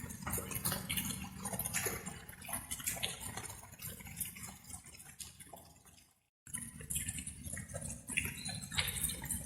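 Light rain: irregular water drops dripping over a low steady rumble. The sound fades down and breaks off for a moment about six seconds in, then starts again abruptly.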